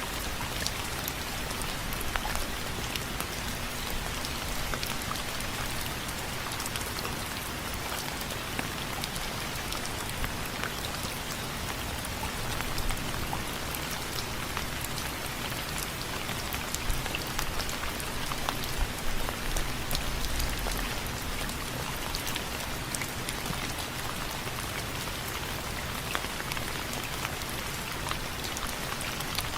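Steady rain falling on window frames: a dense hiss dotted with many sharp individual drop ticks, a few of them louder for a few seconds past the middle.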